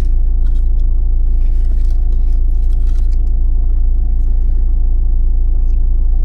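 Vehicle engine idling with a steady low rumble, heard from inside the cab, with a few faint rustles and clicks over it.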